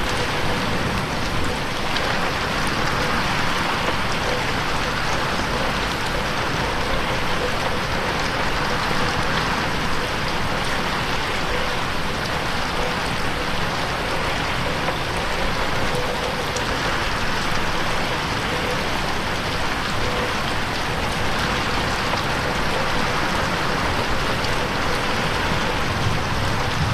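Steady, heavy rain pattering on a window pane, an even wash with no thunder, mixed in 8D so that it seems to move around the listener's head.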